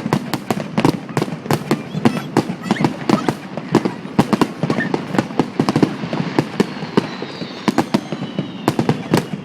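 Fireworks display: a rapid, continuous barrage of sharp bangs, several a second. A faint high whistle falls slowly in pitch in the second half.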